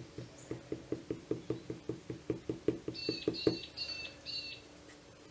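An eraser rubbed quickly back and forth on sketch paper, about six strokes a second, to lift out highlights in a pencil drawing; it stops about three and a half seconds in. Over its end, four short high chirps from a small bird.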